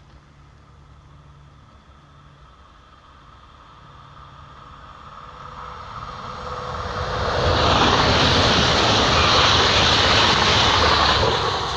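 Electric TER regional train approaching and passing at speed close by: a rushing noise that grows over several seconds, is loudest in the last third as the cars go by, and begins to fade near the end.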